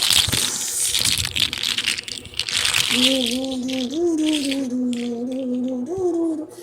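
Rattling, crackling noise with many small clicks for about two seconds, then a long, slightly wavering pitched note lasting about three seconds.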